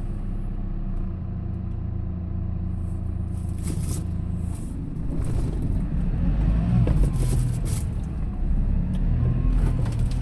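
Engine and road noise inside a moving vehicle, a steady low rumble with a few sharp knocks or rattles around the middle and a somewhat louder stretch in the second half.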